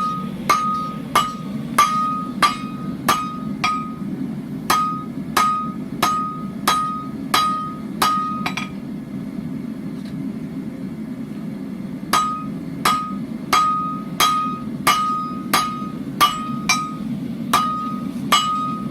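Blacksmith's hand hammer striking hot steel on an anvil while forging in a leaf's shoulders, about two blows a second, each with a short ringing note. The hammering stops for about three seconds past the middle, then starts again.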